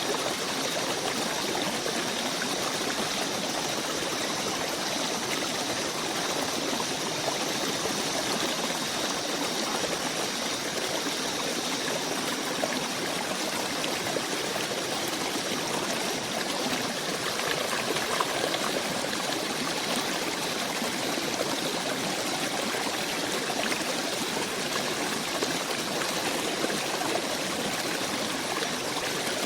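Water in a stream flowing steadily with an even rushing trickle. A faint high steady tone sits over it for the first half and fades out about halfway through.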